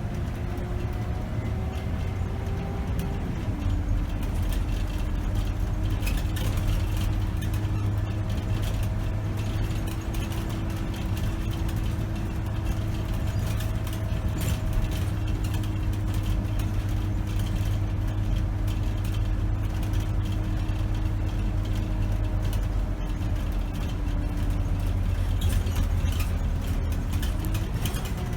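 2008 Scania K270 city bus driving, heard from inside the cab: its five-cylinder diesel engine note climbs, drops about three seconds in as the automatic gearbox shifts up, then runs steady and climbs again near the end, over road noise and light interior rattles.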